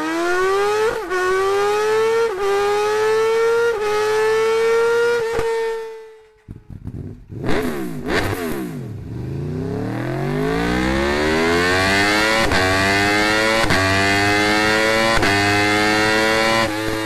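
BMW S1000RR inline-four superbike engine accelerating hard up through the gears, the revs climbing with a quick dip at each of about four upshifts. The sound drops out around six seconds in, there is a short burst of revs rising and falling, and then it runs up through the gears again with another four or so quick shifts.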